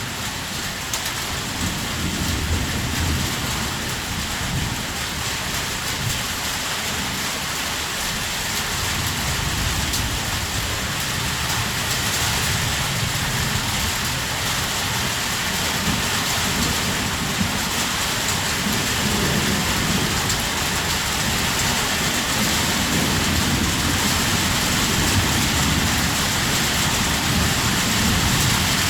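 Heavy rain falling steadily, an even hiss of drops, with a low rumble underneath that comes and goes.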